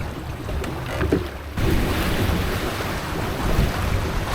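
Wind buffeting the microphone over water rushing along the hull of a small sailboat running fast downwind in a fresh breeze. The rush gets suddenly louder about one and a half seconds in.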